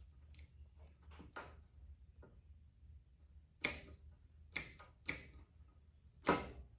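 A series of sharp clicks and snaps from hand work, about eight in all, the four in the second half much louder than the rest.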